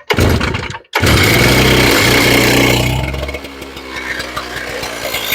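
Stihl TS 700 two-stroke cut-off saw being pull-started after flooding, choke off and throttle held open: it fires briefly and cuts out, then catches about a second in and runs at high revs. About three seconds in, the engine speed and level drop and it keeps running.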